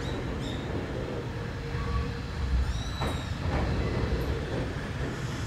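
Railway train noise: a steady low rumble with a few short, high squeaks, one gliding down in pitch about three seconds in.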